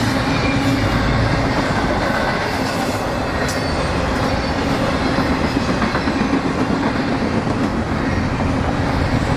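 Freight train rolling past: steady noise of railcar wheels on the rails, with a low steady hum underneath.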